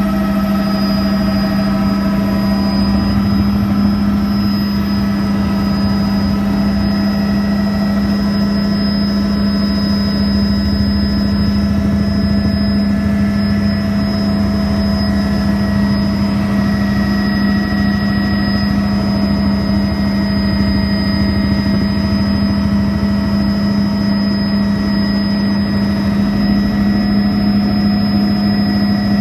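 Helicopter running steadily: a loud, even drone with a strong low hum and fainter higher tones, unchanging throughout.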